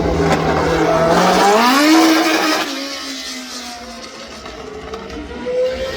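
Race car engine running at a steady note, then rising in pitch about a second and a half in as it accelerates, and fading as the car moves away. Another car's engine comes up near the end.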